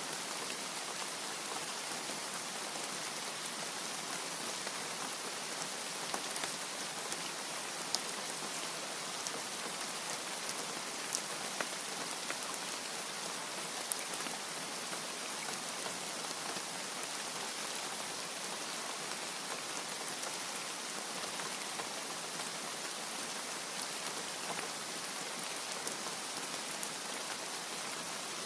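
Steady rain falling, an even hiss with a few sharper single drop ticks scattered through it.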